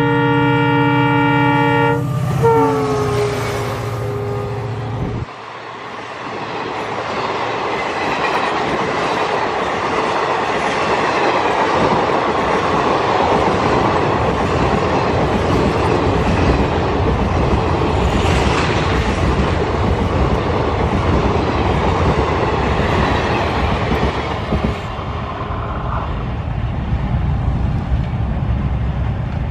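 EMD WDP4 diesel locomotive's multi-tone horn blowing as it approaches at speed, its pitch dropping as the locomotive passes about two seconds in, and the horn stopping a few seconds later. Then comes the steady rolling noise and wheel clatter of the passenger coaches streaming past at about 85 km/h, which eases off near the end.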